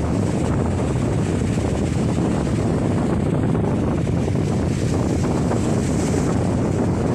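Storm wind blasting across the microphone, a loud steady rush with no let-up.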